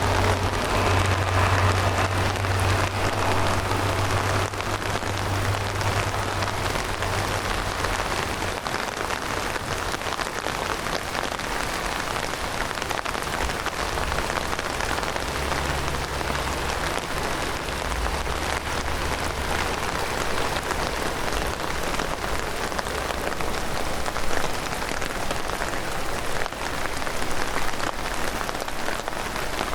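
Heavy rain falling steadily. A low hum fades out over the first several seconds.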